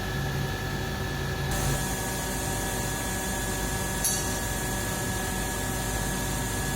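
Brazing torch flame hissing steadily while a leak in a refrigerant pipe is brazed. Under it is a steady machine hum with several tones, and there is a brief click about four seconds in.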